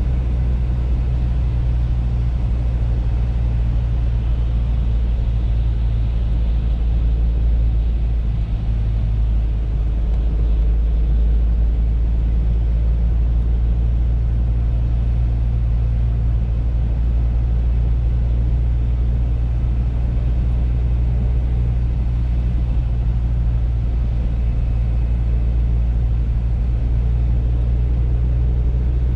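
Audi A3 driving, with a steady low rumble of engine and road noise.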